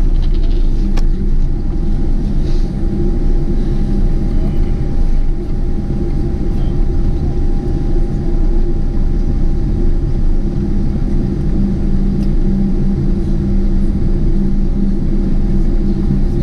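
Steady low rumble of a Boeing 747-8's engines and airframe heard inside the passenger cabin, with a thin, steady whine above it.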